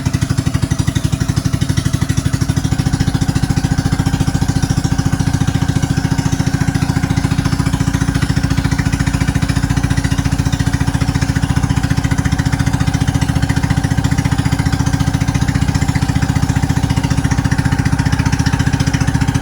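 Banka boat's engine running steadily under way, with a rapid, even beat.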